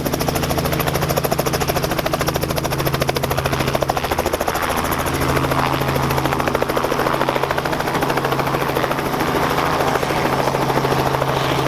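Helicopter running, its rotor blades beating rapidly and evenly over a steady engine drone.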